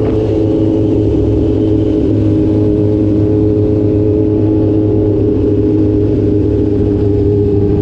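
Motorcycle engine running at a fairly steady speed while riding, its note holding nearly level and easing slightly down.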